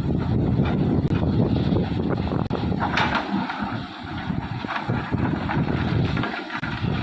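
Excavator's diesel engine running under load, a heavy low rumble that eases briefly twice, with wind buffeting the microphone.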